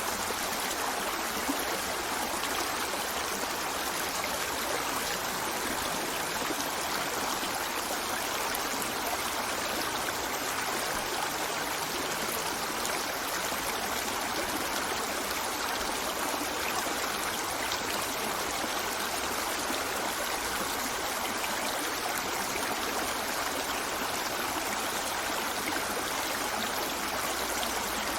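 Stream water running steadily, an even rush that does not change.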